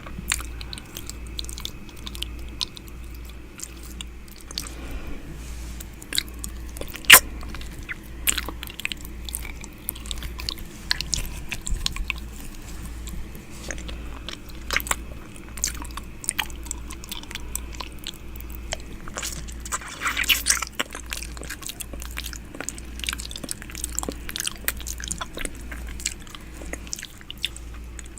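ASMR ear-eating mouth sounds right at the microphone: a steady stream of close lip smacks and tongue clicks, with one sharp smack about seven seconds in and a denser cluster around twenty seconds.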